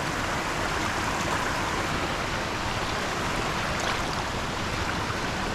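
Steady rush of flowing water, a stream running high after a night of heavy rain.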